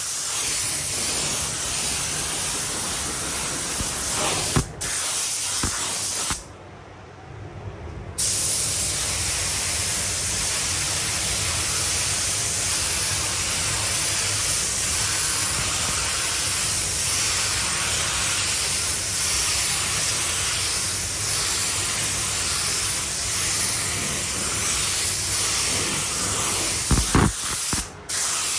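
Air-driven paint spray gun hissing steadily as it sprays paint onto a car body. The hiss stops for about two seconds after roughly six seconds, then resumes, with two brief breaks elsewhere where the trigger is let go.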